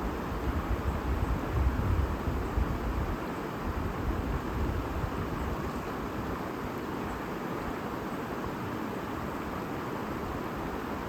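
A river or stream babbling steadily, with a low rumble that is strongest over the first three seconds.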